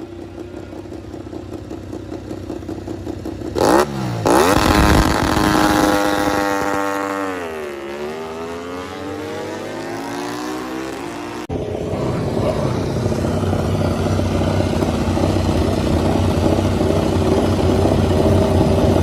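MotoGP racing motorcycle engines at high revs. A bike passes close and loud about four seconds in with a sharp drop in pitch, then its engine note falls for several seconds and climbs again. After a sudden cut, a steady engine note slowly grows louder.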